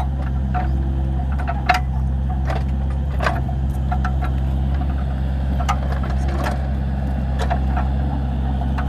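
An excavator's diesel engine runs steadily, with scattered sharp clicks and knocks over it about once or twice a second.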